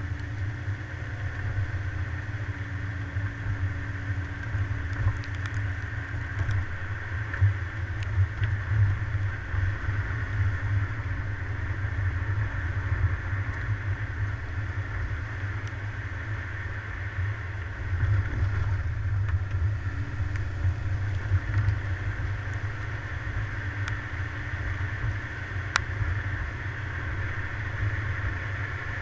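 Car driving along: a steady low engine and road rumble with a few faint clicks and rattles.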